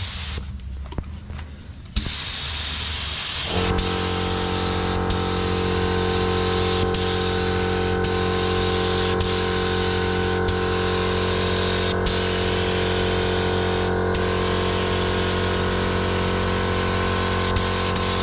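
Air spray gun hissing as it lays Raptor liner onto the truck. It starts suddenly about two seconds in, and a little later a small electric air compressor starts and runs with a steady hum under the hiss.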